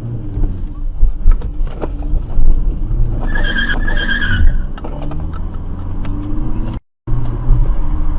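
A vehicle driving fast, its engine and road noise making a heavy, rough rumble with scattered knocks. About three seconds in, two short high tones sound one after the other. Near the end the sound cuts out briefly and returns.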